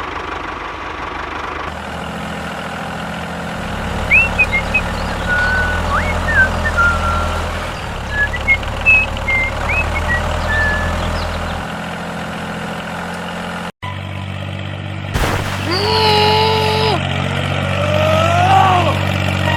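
A vehicle engine running steadily as a low drone, with short birdlike chirps over it for several seconds. After a brief dropout, sliding pitched tones come in over the drone.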